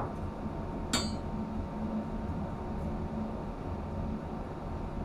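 A single sharp metallic clink with a short ringing tail about a second in, over a steady low machinery hum.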